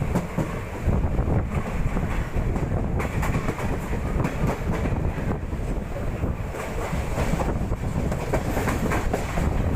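Passenger express train running, heard from on board: the wheels clatter over the rail joints under a steady rumble, with wind rushing past.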